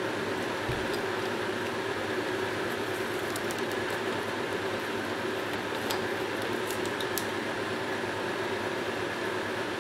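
Small electric fan running steadily with an even whir, with a few faint ticks midway through.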